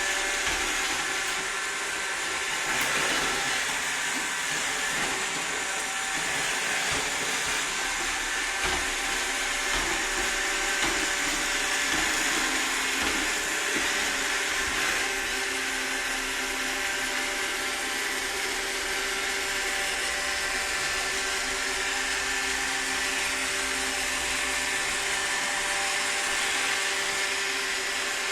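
Roomba robot vacuum running steadily, a motor whir with a hiss of suction and a few steady whining tones.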